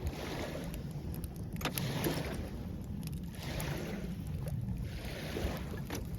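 Small waves washing onto the shore in repeated swells, over a low rumble of wind on the microphone, with a few faint clicks.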